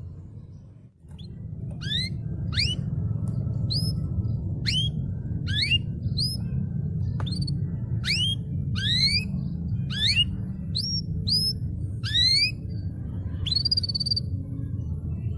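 Canary singing: a string of short, quick upward-sweeping chirps, one or two a second, starting about a second and a half in and ending in one longer held note near the end, over a steady low hum.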